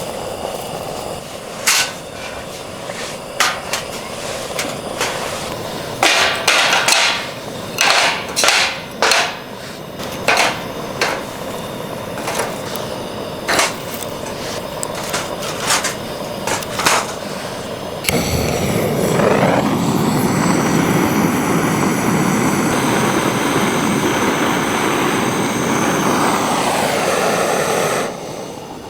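Wood being chopped or split with a hand axe: sharp, irregular knocks, some in quick runs. Then, about two-thirds of the way in, a gas torch burner starts up and runs steadily for about ten seconds, lighting the fire, before cutting off sharply.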